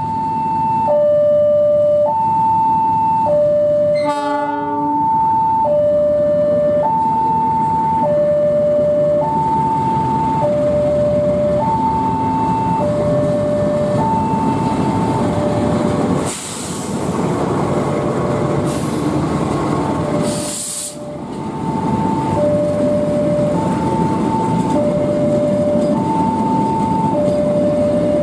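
Electronic hi-lo level-crossing warning alarm alternating between two tones about once a second, over the low rumble of a passing train. A brief sharp tone sounds about four seconds in, and two loud hissing blasts come about four seconds apart past the middle.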